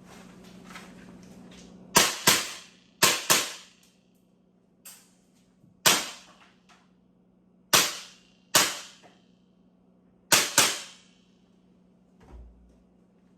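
Sig Sauer ProForce M17 airsoft pistol firing about nine sharp shots, several in quick pairs, each with a short echo.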